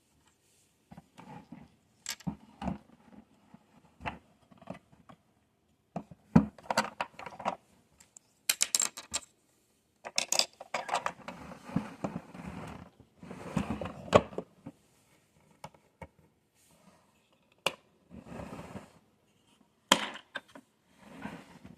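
Small plastic miniature toys being handled and set down, with irregular clicks, taps and scraping or rustling.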